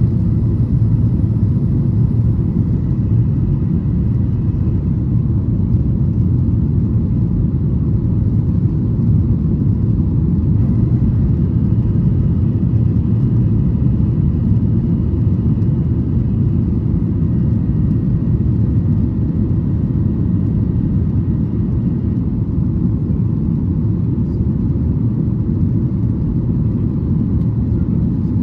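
Boeing 737-800's CFM56-7B jet engines at climb power, heard inside the passenger cabin: a steady low rumble with faint high whining tones over it.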